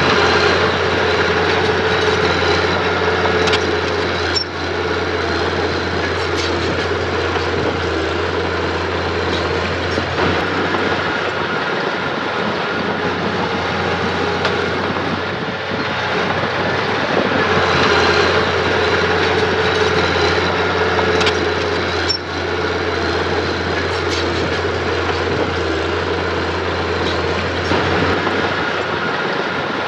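Engine of earthmoving machinery running steadily at work, with a few short metallic clanks.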